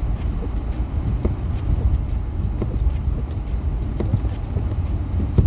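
Steady low rumble of a truck driving on the highway, heard from inside the cab, with wind noise on the microphone over it.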